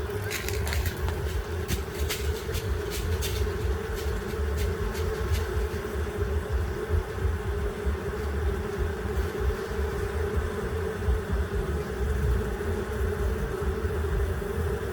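Bee buzzing steadily close to the microphone, a continuous hum over a low, fluctuating rumble. A scatter of sharp clicks sounds in the first five seconds or so.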